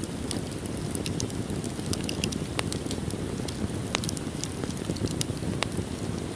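Wood fire burning in a fireplace: a steady low rumble of flames with many quick crackles and a few sharper pops scattered through.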